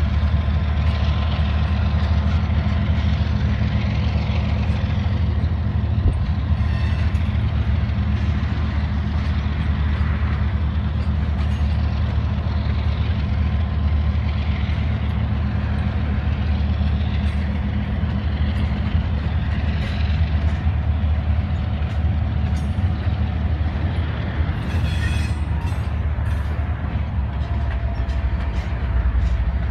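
Several diesel freight locomotives running with a steady low engine drone as they pull a container train slowly past, with faint steady tones above and a few scattered clicks.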